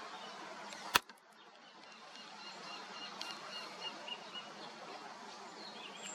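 A single sharp click about a second in, then a bird calling: a quick run of about eight short, high notes over a faint outdoor background.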